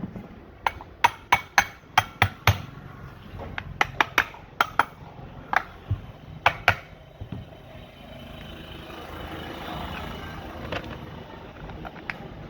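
A series of sharp knocks, like hammer blows, coming about three to four a second in two runs. After them comes a fainter steady noise with an occasional single knock.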